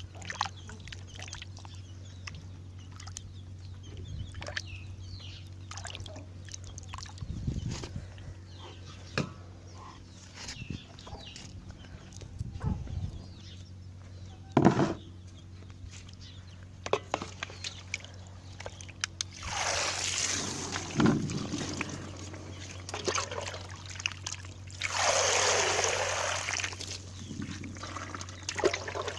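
Water poured and splashing in two longer gushes in the second half, amid scattered small knocks and clicks of handling.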